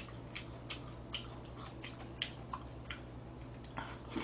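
Close-up mouth sounds of a man chewing spaghetti: soft, irregular wet smacks and clicks, over a faint steady low hum.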